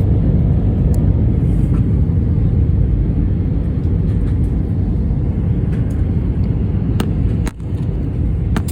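Steady low rumble of a StarFlyer Airbus A320 airliner during landing, with a few sharp clicks, one about a second in and a couple near the end.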